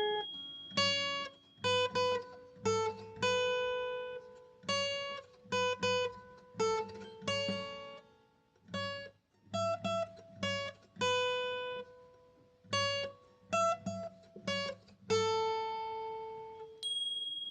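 Solo acoustic guitar playing a slow instrumental passage of plucked notes and chords, each ringing out and fading, with short pauses between phrases.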